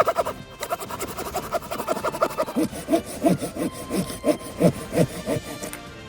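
A hand saw cutting through wood in quick back-and-forth strokes, about five a second at first, then slower, heavier strokes about three a second from about two and a half seconds in.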